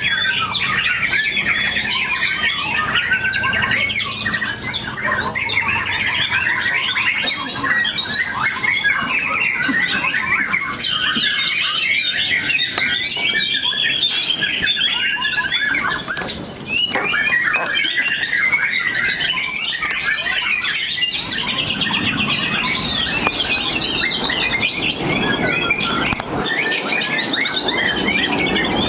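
Several white-rumped shamas (murai batu) singing at once in a dense, unbroken run of rapid whistled and trilled phrases.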